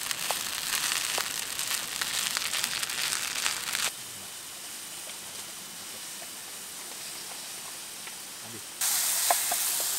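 Food sizzling and crackling as it fries in a small camping pan. About four seconds in it cuts abruptly to a quieter, even hiss, and the sizzling comes back suddenly near the end.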